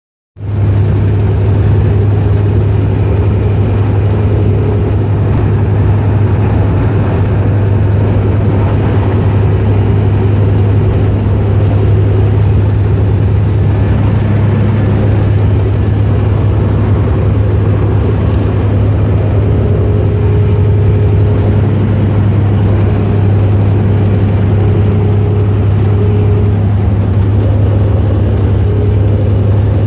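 Diesel engine of a 2007 Freightliner Columbia semi-truck running steadily, with a thin high whistle that comes and goes several times over a low steady drone. The noise is from its failing water-cooled turbocharger, which has also cost the truck power.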